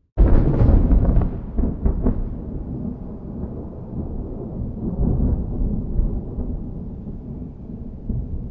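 Close thunderclap: a sudden sharp crack just after the start, with crackling for about two seconds, then a long low rolling rumble that slowly fades.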